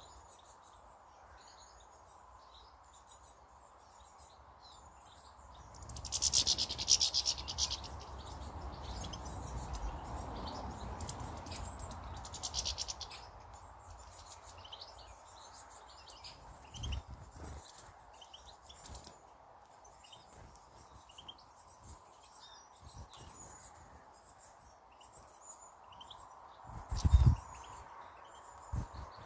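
Small garden birds chirping and calling, many short chirps throughout, with a louder noisy burst about six seconds in and a brief thump near the end.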